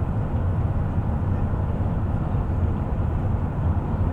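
A bus on the move: its engine and tyres make a steady, even low rumble.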